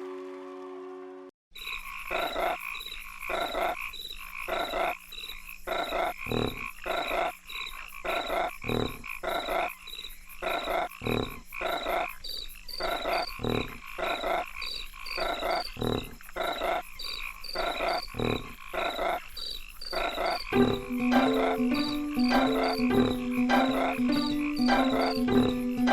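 Frogs croaking in a steady rhythm, about two croaks a second, with insects chirping. About twenty seconds in, a pitched musical bass line joins.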